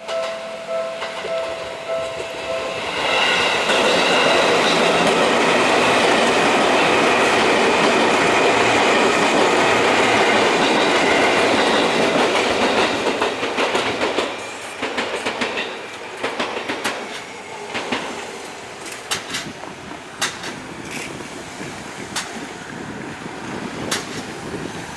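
A level-crossing alarm ringing with pulsing electronic tones. About three seconds in, a six-car Seibu 2000 series electric train passes close by, loud for about ten seconds, and then its wheels clack over the rail joints in sharp irregular clicks as it goes on.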